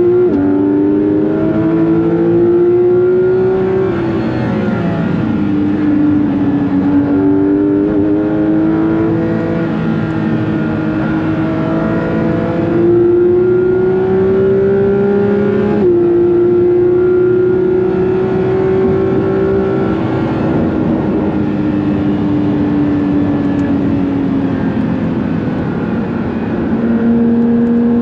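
Porsche 911 GT3 (992.2) naturally aspirated 4.0-litre flat-six heard onboard at speed, its pitch climbing under load and dropping suddenly at gear changes, then winding down to a lower, steady pitch near the end as the car slows.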